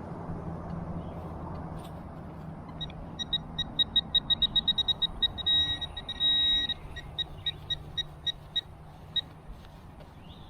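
Metal detector beeping over a target: rapid beeps that run together twice into a held tone, then slow down and stop. A low steady rumble runs underneath.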